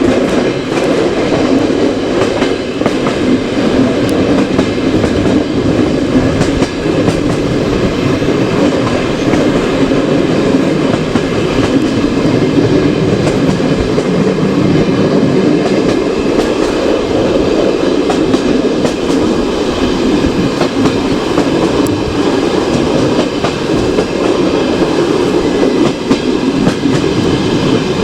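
Passenger train carriage running on the track, heard from aboard at the window: a steady, loud rolling rumble of wheels on rails with scattered clicks from rail joints.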